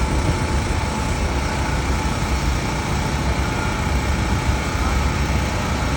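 A steady engine running, with a low rumble and a faint whine above it.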